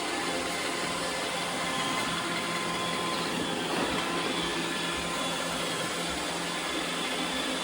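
iRobot Roomba 850 robot vacuum running steadily, its motors making a constant rush of noise with several steady tones in it.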